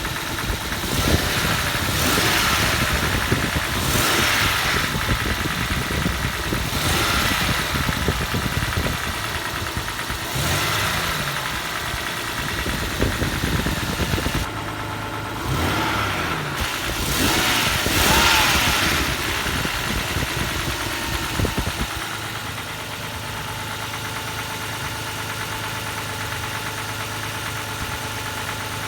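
Toyota 1G-FE straight-six engine blipped up in several short revs, then settling to a steady idle about two-thirds of the way in. It makes a knock that the owner cannot explain.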